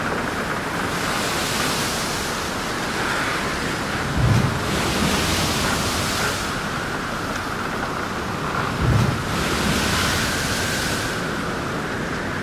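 Steady rushing noise like ocean surf, swelling about every four to five seconds, with a low thud about four seconds in and again about nine seconds in.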